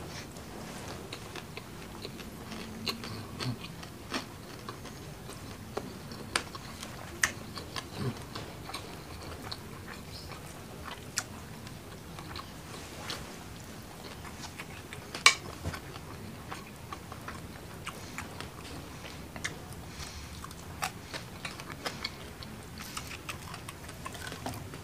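Close-miked chewing and wet mouth sounds of a person eating rice and fried mackerel in chili sambal by hand, with frequent short sharp clicks. The sharpest click comes a little past halfway.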